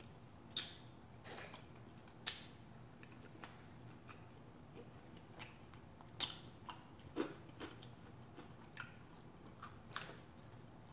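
A person chewing french fries dipped in blue cheese dressing. The chewing is quiet, with a few short sharp clicks and smacks now and then.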